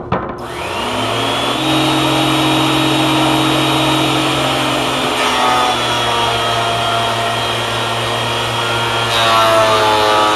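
Portable thickness planer switched on with a click and spinning up to speed, then running steadily. Its tone drops about five seconds in as a board is fed to the knives, and shifts again near the end.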